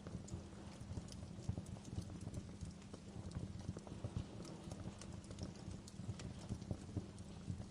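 Wood fire burning in a fireplace: a steady run of soft, irregular crackles with scattered sharper pops.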